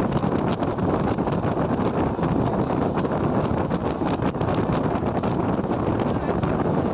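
Train running past on the line: a steady loud rumble with scattered sharp clicks, and wind buffeting the microphone.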